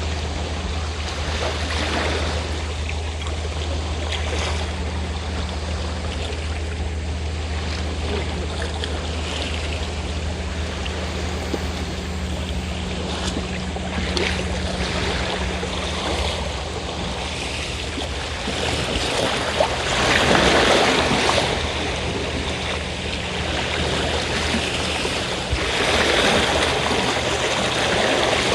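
Waves washing on the shore, with the steady low hum of a fishing boat's engine that fades out a little past halfway. The surf swells louder twice in the second half, about twenty seconds in and again near the end.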